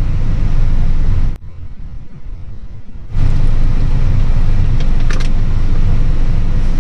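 Steady low road and engine rumble of a truck driving, heard from inside the cab. It drops abruptly to a quieter level about a second and a half in and jumps back up about three seconds in.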